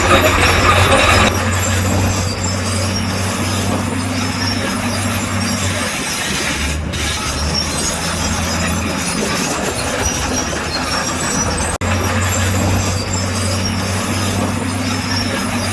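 Bulldozer diesel engine running under load with steel crawler tracks clanking and squealing. The engine drone dips and comes back a few times, and there is a short break about 12 seconds in.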